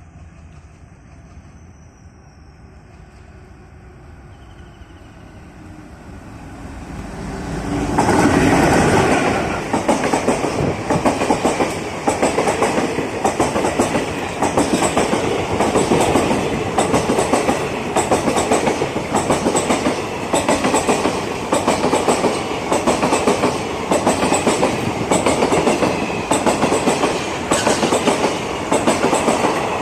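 A train approaches, growing louder, and passes close from about eight seconds in. The WDM-3D Alco diesel locomotive goes by first, then the coaches, their wheels clicking in a steady rhythm over the rail joints.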